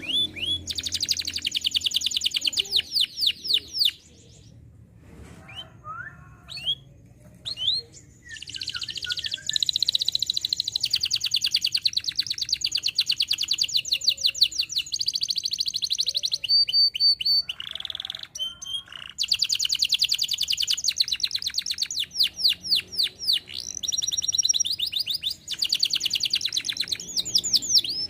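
Domestic canary singing: long runs of rapid, repeated high notes, breaking off twice, once after about four seconds and again past the middle, before going on.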